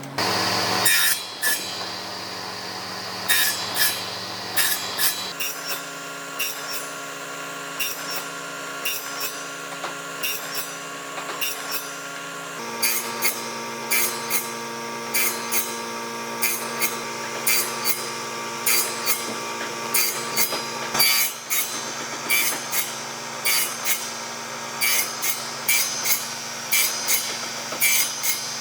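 A woodworking tool working wood: a steady motor hum under many short, irregular rubbing and cutting strokes on the wood. The hum changes abruptly about 5 seconds in and again about 13 seconds in.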